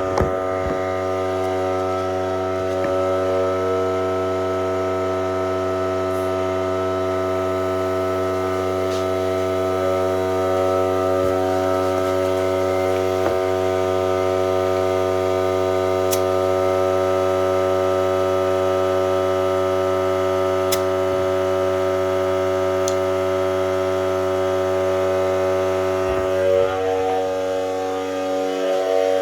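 Electric air compressor running with a steady, even hum while a bike tire is aired up.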